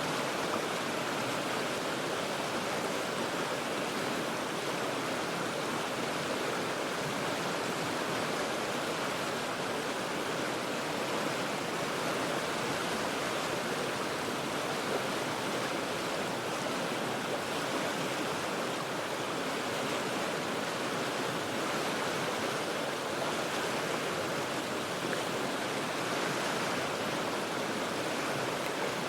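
The Cheat River rushing over rocks: a steady, unbroken wash of moving water with no breaks or single events.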